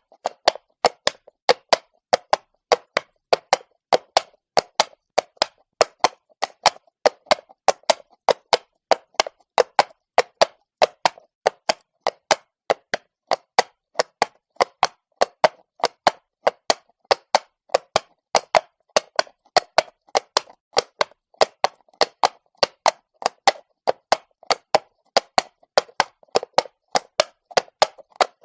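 Horse's hooves clopping on cobblestone at a walk: an even, unbroken run of sharp clops, about three a second.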